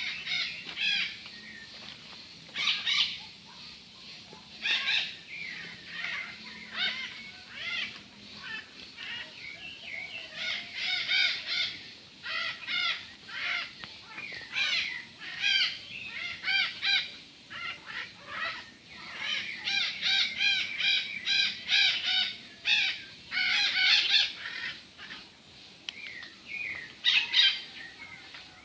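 Flock of parrots calling, a run of harsh, repeated squawks and screeches that overlap, thickest in the middle of the stretch.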